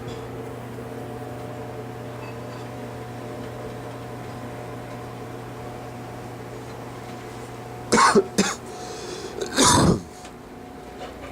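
A person coughs a few times near the end: two quick coughs, then a longer, heavier one. Before that, a steady low hum runs underneath and drops away about when the coughing starts.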